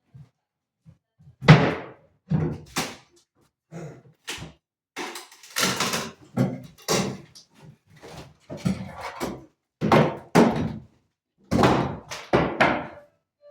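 Irregular heavy thuds and knocks, one after another, from hammering and breaking apart old wooden pieces during demolition work, with a longer noisy crunching stretch about five to six seconds in.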